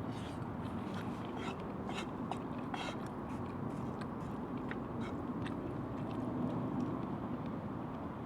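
A person eating, chewing with scattered small clicks and scrapes over a steady background noise.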